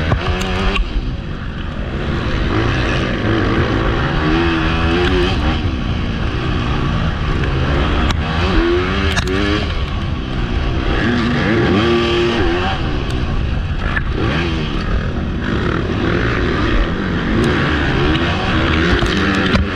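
Motocross bike engine heard close up from the rider, revving up and falling off again and again through the gears, with wind rush on the microphone.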